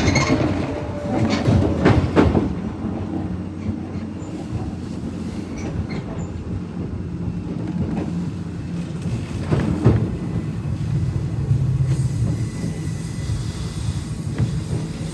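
Nishitetsu 600-series electric train running along the line, heard from on board: a steady rumble of wheels and running gear, with sharp clacks as the wheels cross rail joints near the start and again about ten seconds in.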